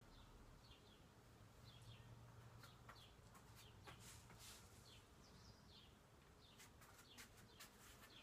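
Near silence, with faint birds chirping repeatedly in short calls that dip in pitch, and a few soft clicks.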